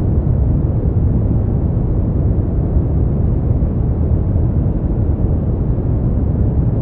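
Continuous synthetic brown noise: a steady, deep rumbling hiss with most of its weight in the bass and little above the midrange.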